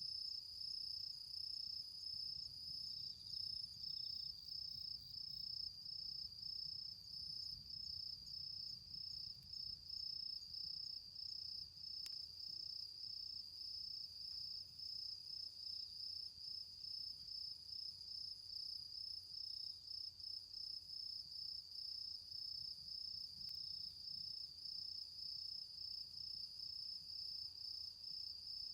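Autumn insect singing: a steady high-pitched call of short pulses repeated evenly, with one faint click about twelve seconds in.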